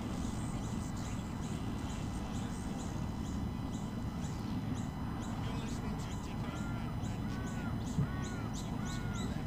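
Birds calling in bushland: a quick high chirp repeats several times a second throughout, and about two-thirds of the way in a second bird joins with short arched calls, about one and a half a second. Under them is a steady low rumble.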